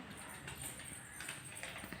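Faint room noise with a few light, irregular taps and knocks.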